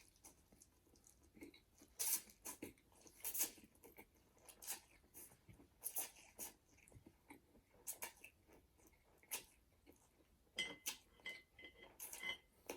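Close-up mouth sounds of a person eating ramen noodles and gyoza dumplings: irregular wet chewing and smacking bites, with a brief squeaky patch near the end.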